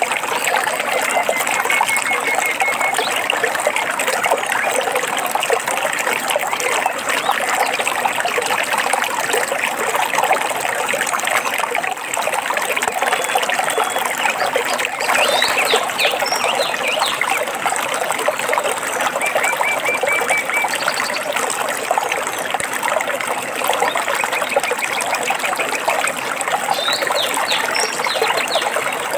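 Steadily trickling, splashing stream water, with a few songbirds adding short trills and chirps over it: a trill near the start, chirps about halfway through, another trill a little later, and more chirps near the end.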